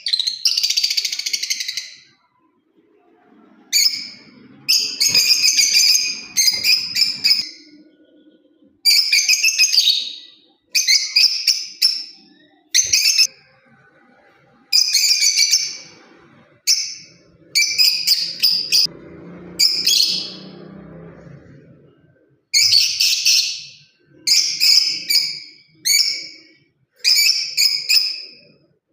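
Lovebird chirping in a long run of high-pitched, rapid bursts, each about a second long with short pauses between.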